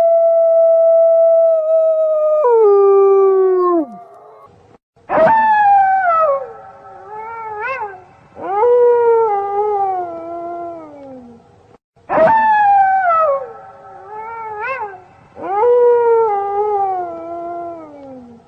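Wolf pack howling: several long, overlapping howls that hold a note and then slide down in pitch, broken by short rising yips. The same run of howls comes twice, about seven seconds apart.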